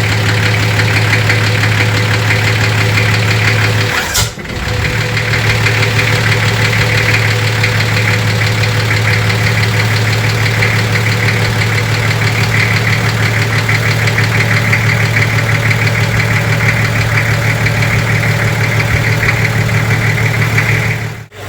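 Rebuilt Nissan TD42 straight-six diesel engine running steadily, with a brief drop in sound about four seconds in.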